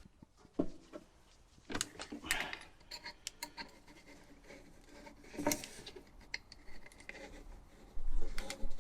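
Scattered clicks, taps and rubbing of small hardware being handled, with a louder burst of knocks near the end: the diesel heater's air intake filter being fitted onto its pipe.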